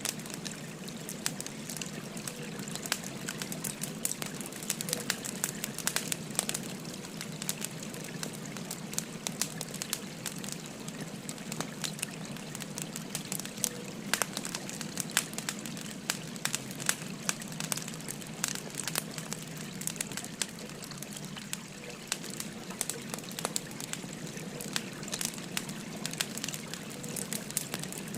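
Firewood burning with frequent sharp crackles and pops, over the steady babble of a flowing river.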